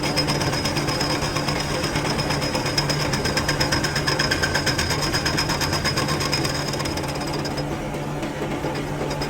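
A power tool hammering in rapid, even pulses over the steady hum of a running engine.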